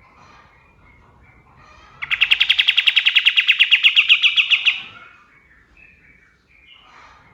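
Kapas tembak bulbul singing a loud, rapid-fire trill of about ten notes a second, lasting close to three seconds, starting about two seconds in: the dense 'tembakan' burst prized by bird keepers. Faint chirps of other birds sound before and after it.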